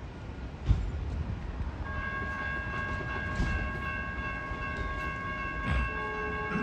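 Caltrain electric train approaching the station with a low rumble. About two seconds in a steady multi-note tone comes in and holds.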